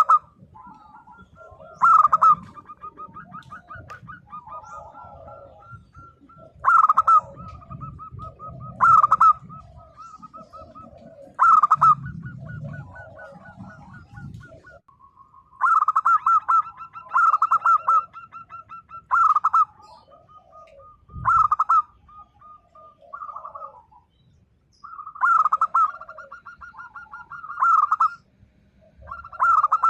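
Zebra dove (local perkutut) singing: loud cooing call notes repeated every one to three seconds, run together with fast trilled purring between them.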